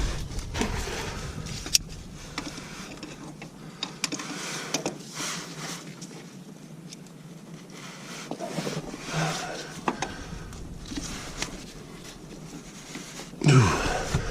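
Scattered light clicks, knocks and rustling from hands and tools being handled, with no engine running.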